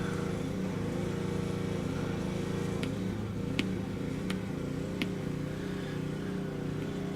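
Keys on a handheld scan tool being pressed while a VIN is entered: light clicks about 0.7 s apart around the middle, over a steady low hum.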